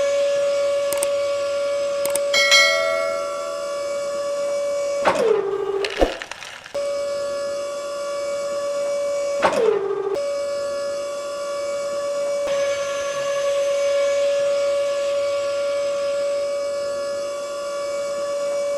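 Small electric motor running with a steady high-pitched whine. Twice it is switched off, its pitch dropping as it spins down, and about a second later it starts again at full speed.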